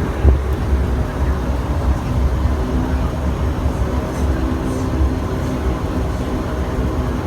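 Bombardier Q400's twin turboprop engines and propellers droning steadily, heard inside the passenger cabin: a pulsing low hum with several steady tones over it.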